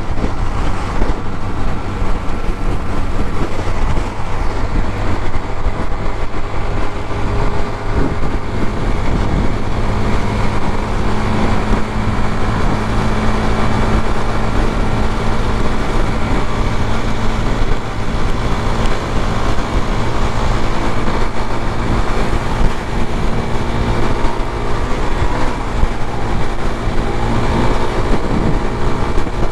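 Suzuki GZ250's single-cylinder 250 cc engine running steadily while the bike is ridden in traffic, under a loud, unsteady rush of wind on the microphone.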